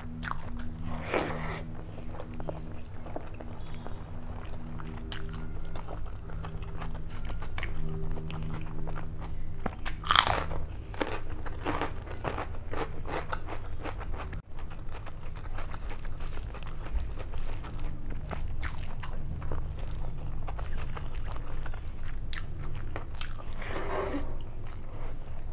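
Close-miked chewing and wet mouth sounds of a person eating mutton biryani by hand, with many small clicks and smacks. A louder mouth sound comes about ten seconds in, over a steady low hum.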